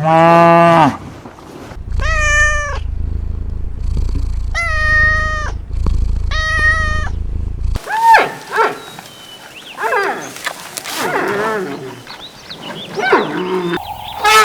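A cat meowing three times, each meow under a second long, over a low hum, just after the tail of a cow's moo at the very start. From about eight seconds in, a faster run of shorter, varied animal calls follows.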